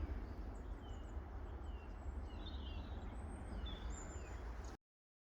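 Small birds chirping and twittering in high short calls over a steady low outdoor rumble. The sound cuts off suddenly near the end.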